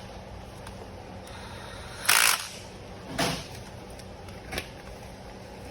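Short bursts of hand-tool noise during spark plug and ignition coil work on a car engine: a sharp burst about two seconds in, a softer one about a second later and a faint one near the end, over a steady low hum.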